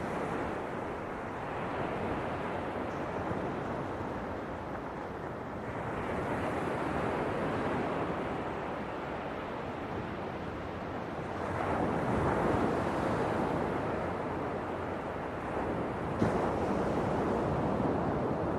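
Ocean waves breaking and washing in, swelling in surges about every five or six seconds.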